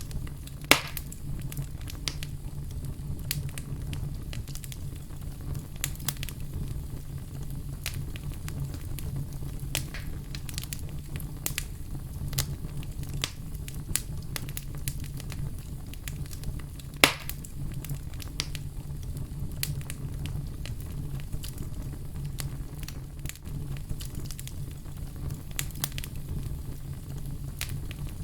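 Fire crackling: frequent small pops and snaps over a steady low rumble, with two sharp, much louder pops, one about a second in and one about 17 seconds in.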